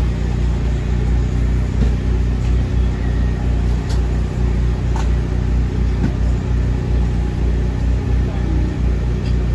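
Steady low machine hum, with a few light clicks and knocks.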